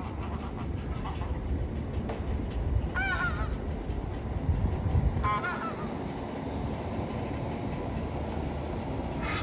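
A large waterbird honking twice, short wavering calls about three and five seconds in, with a fainter call near the end, over a steady low background rumble.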